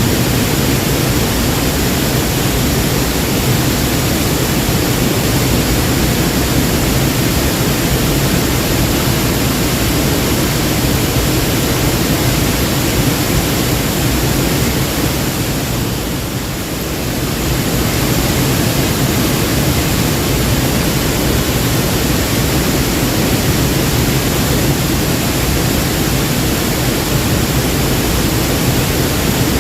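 Waterfall: a steady, loud rush of falling water, dipping briefly about halfway through.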